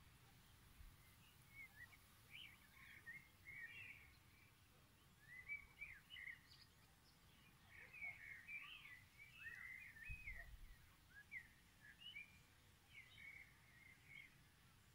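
Small songbirds chirping and twittering faintly, many short quick notes scattered throughout, over a soft low background rumble.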